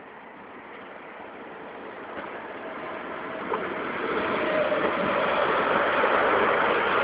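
An SNCF train approaching along the track, its rolling noise growing steadily louder, with a faint steady hum coming in about halfway.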